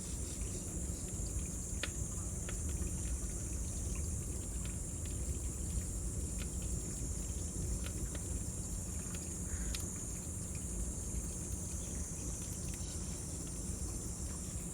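Cicadas droning steadily in a high, even band over a crackling bonfire, whose pops and snaps come as scattered sharp clicks above a low rumble.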